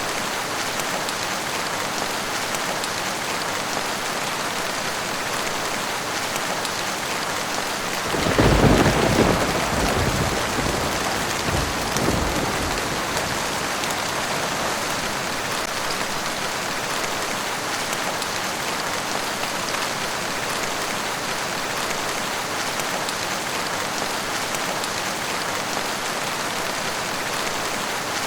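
Steady heavy rain falling, with a roll of thunder rumbling up about a third of the way in and dying away over a few seconds, and a smaller rumble shortly after.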